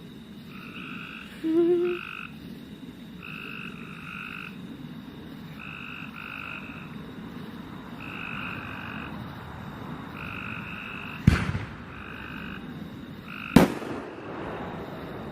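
Steady night chorus of chirping calls, short paired chirps repeating about once a second. Two distant firework bangs go off, a couple of seconds apart, near the end. A short pitched sound rises about two seconds in.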